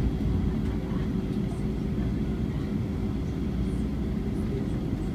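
Steady cabin roar of an Airbus A320 in flight, heard from inside the rear cabin: a low rumble of the jet engines and airflow with a constant hum.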